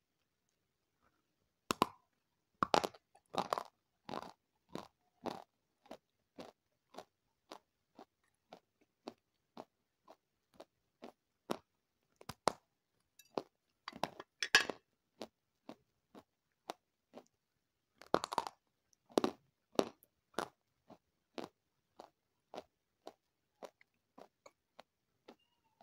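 A person bites into crunchy food with several loud crunches about two seconds in, then chews with steady crunches about one and a half a second that slowly fade. Louder fresh bites come about halfway through and again a few seconds later.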